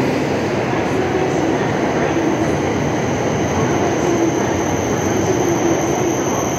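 JR East E7 series Shinkansen train pulling out of the platform, its cars passing close by with a steady loud rush of wheels on rail and air. A low hum swells and fades under it, and a thin high tone grows stronger near the end.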